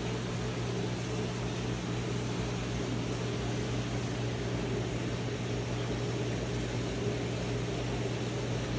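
Steady mechanical hum under an even hiss, unchanging throughout, like ventilation or pump machinery running.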